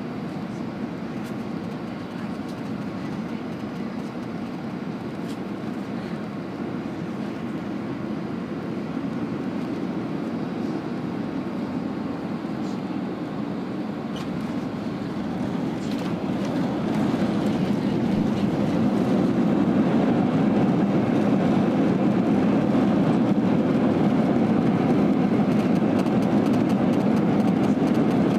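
Airbus A320 landing: a steady rumble of jet engines and rushing air, which grows louder about two-thirds of the way through and then holds.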